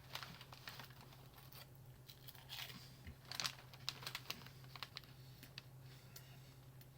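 Faint, scattered crinkles and crunches from a plastic snack bag being handled and freeze-dried pear crisps being eaten, over a steady low hum.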